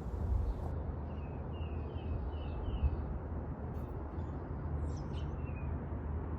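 Wild songbirds chirping outdoors: a quick run of about six short, similar notes, then a few higher calls near the end, over a steady low rumble.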